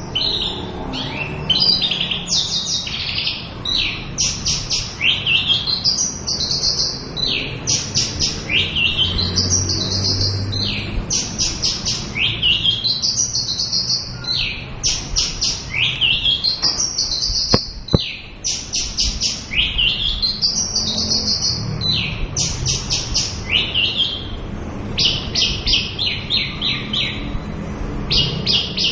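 Javan bush lark singing continuously: phrase after phrase of rapid high trills and rising sweeping notes with hardly a pause. A single sharp click sounds about eighteen seconds in.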